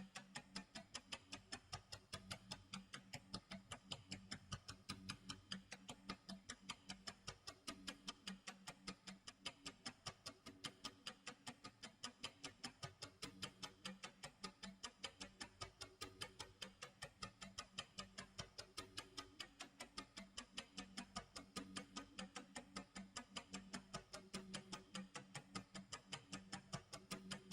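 Quiet clock tick-tock sound effect: even, regular ticks over a faint steady low tone.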